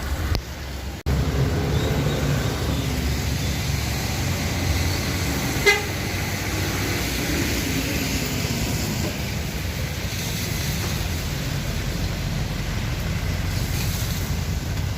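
Bus terminal traffic: a steady low rumble of bus engines, with one short horn toot about six seconds in.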